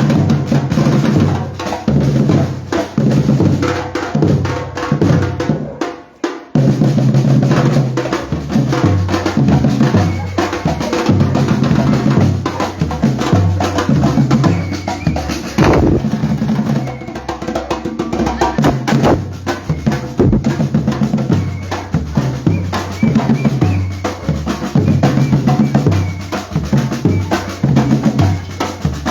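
Batucada drum group playing, with bass drums and snare drums keeping a dense, steady rhythm. The drumming drops out briefly about six seconds in, then comes back in.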